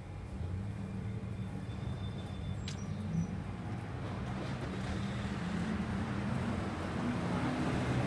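Steady running of car wash machinery and idling vehicles: a low hum under a rushing noise that slowly grows louder, with one sharp click about three seconds in.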